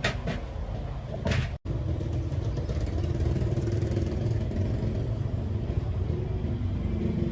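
Steady low engine rumble, with a few knocks in the first second and a half.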